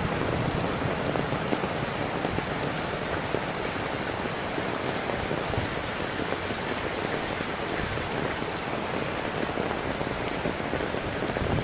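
Heavy rain falling steadily, a dense even hiss with a faint low rumble underneath.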